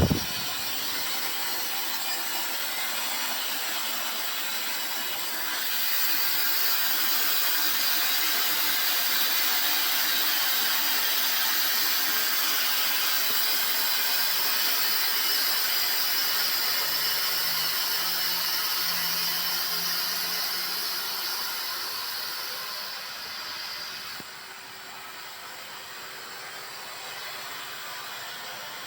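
Steady rushing hiss of machinery that grows louder about five seconds in and drops back down after about 24 seconds.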